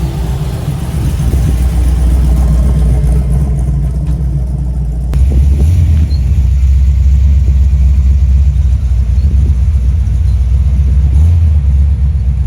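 Car engine idling with a deep, steady rumble, getting louder about five seconds in.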